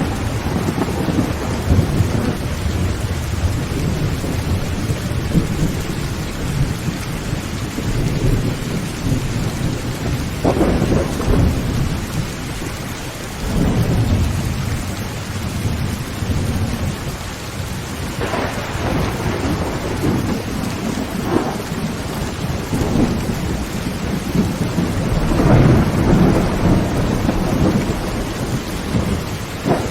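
Heavy rain drumming steadily on a tin tent roof, with rolls of thunder that swell and fade several times.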